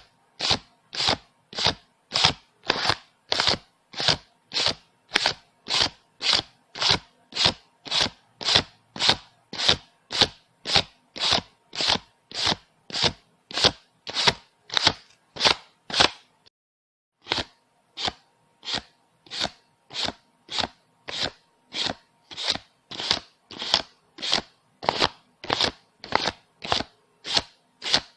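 Paper banknotes counted by hand, one bill flicked off the stack at a time: an even run of short, crisp swishes, about two a second, with a brief break a little over halfway through.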